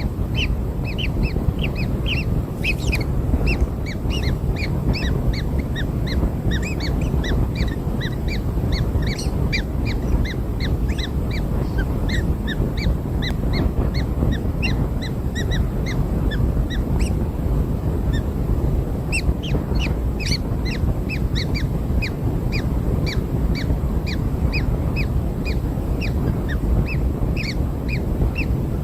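Kingfisher nestlings begging: a continuous stream of short, rasping chirps, several a second, over a steady low background rumble.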